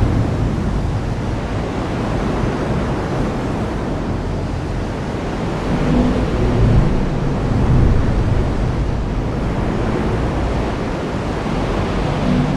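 Heavy rain falling steadily, with low thunder rumbling and swelling about halfway through.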